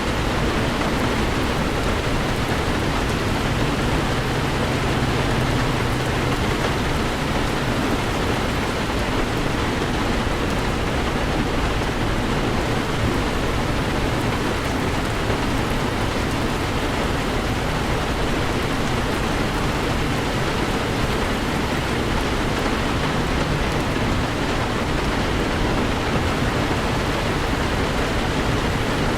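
Heavy rain falling steadily on a moving Toyota 4Runner, an even hiss of rain with a low drone underneath.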